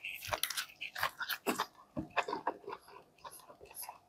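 A person biting into and chewing a McDonald's Angus burger: a quick run of short mouth clicks and smacks that thins out after about two and a half seconds.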